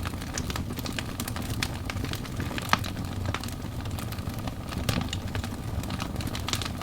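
Burning wood logs crackling, with frequent irregular sharp pops, the strongest about two and a half seconds in, over a steady low rush of the flames.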